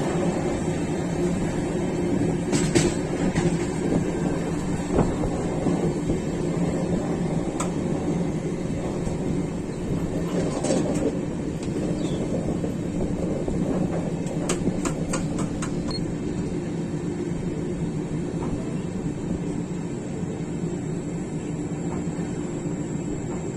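Passenger train running, heard from on board: a steady rumble and hum with scattered sharp clicks, including a quick run of clicks about two-thirds of the way through.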